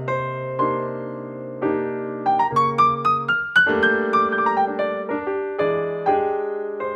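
Background piano music: struck notes and chords over a sustained bass, with a quick run of rising notes about halfway through.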